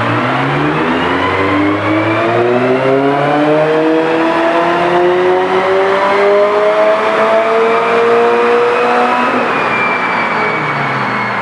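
Turbocharged Subaru BRZ's FA20 flat-four engine with a full Borla exhaust, pulling at full throttle on a chassis dyno: the engine note climbs steadily through the revs for about nine seconds, then drops away as the throttle is released.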